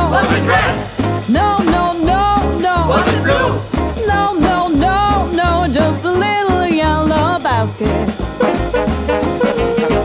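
Swing band playing live: melody lines over a steady bass line and a regular drum beat.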